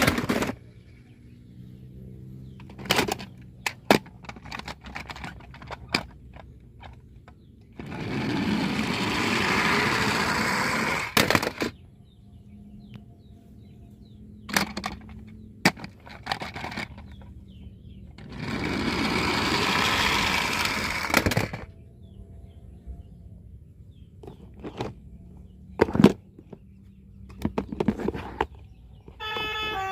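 Diecast toy cars being handled: scattered sharp clicks and knocks, and twice a rushing whirr lasting about three seconds.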